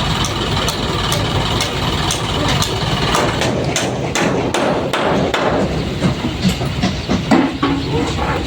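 Isuzu dump truck's engine running, with a string of sharp knocks and clatter from the body as a load of sand and soil is tipped out. The knocks come fastest around the middle.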